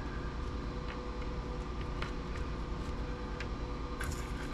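Faint scattered clicks and light clinks of small metal screws and parts being handled, over a steady background hum.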